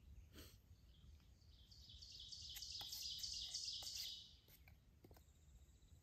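A songbird singing a run of rapid repeated high notes that grows louder for about two and a half seconds, then stops abruptly. A few faint clicks sound over quiet forest ambience.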